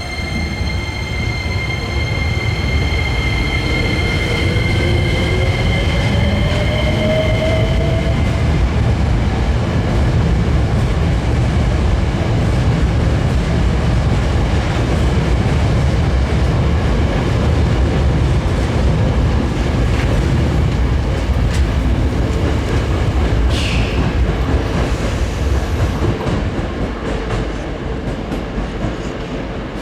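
Hankyu Series 9300 electric train pulling out of the station. A motor whine rises in pitch over the first several seconds, then the wheels rumble and clatter over the rails as it picks up speed, easing off near the end.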